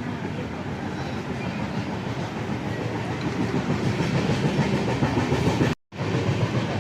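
Passenger train running on the rails, heard from inside the coach: a steady rolling rumble of wheels on track with clickety-clack. The sound cuts out for a split second near the end, then carries on.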